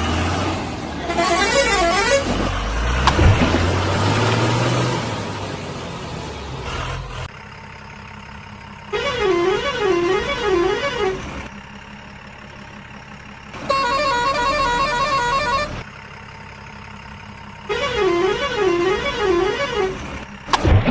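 Electronic siren-like warbling, of the kind a toy vehicle's sound chip plays, in four bursts of about two seconds each, the pitch wavering up and down. The first few seconds also carry loud rumbling vehicle noise with a rising engine tone.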